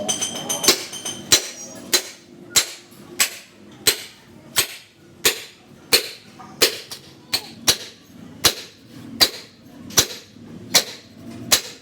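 Hammer striking metal in a steady rhythm, about three blows every two seconds, each blow sharp with a short ring.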